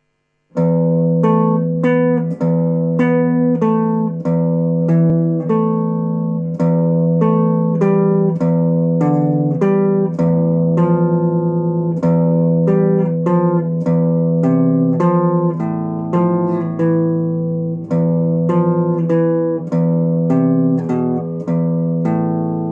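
Solo guitar music: a steady stream of plucked notes, each ringing and fading, over low sustained bass notes, starting about half a second in.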